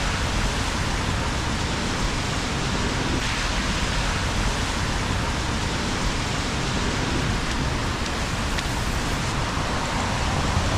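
Steady rain falling on a wet city street, an even hiss that doesn't let up.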